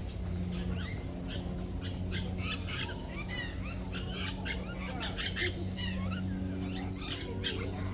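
Many birds in a walk-through aviary giving short, rapid chirps and squawks throughout, over a steady low hum.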